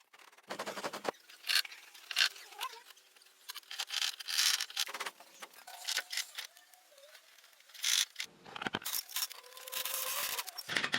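Irregular short bursts of scraping and rubbing, with quieter gaps between them.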